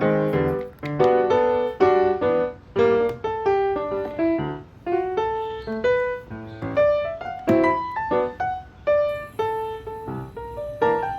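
Background piano music: a melody of separate struck notes, several a second, each fading after it sounds.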